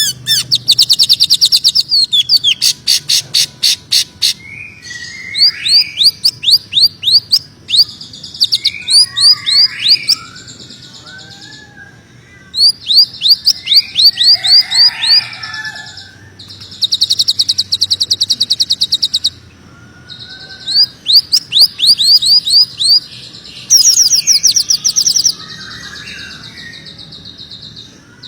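Greater green leafbird (cucak ijo) singing in fast bursts of sharp, high, sweeping notes, each burst a second or two long with short pauses, and softer lower warbled notes between the bursts.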